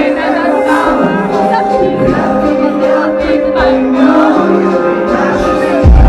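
Live pop song performed in a large hall, a sung melody over sustained backing chords, with heavy bass beats coming in right at the end.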